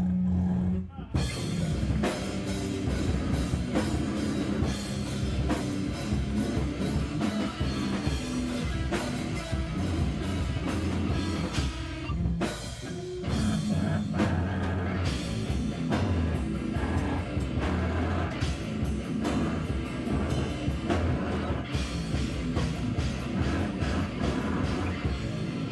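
Loud live heavy rock band playing distorted electric guitar over a drum kit. The band drops out briefly about halfway through, then comes back in.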